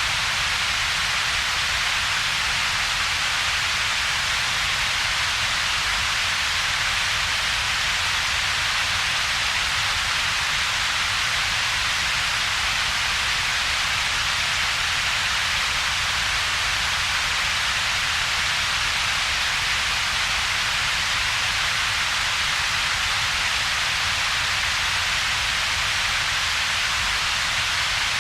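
Computer-generated double-peaked noise, a steady unbroken hiss. It has a strong bright band in the upper middle of the range and a weaker low rumble, with little in between.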